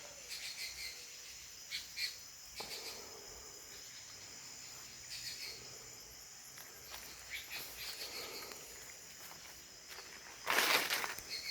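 Steady high-pitched drone of insects, with many short bird calls scattered through it. A brief rustling noise comes near the end.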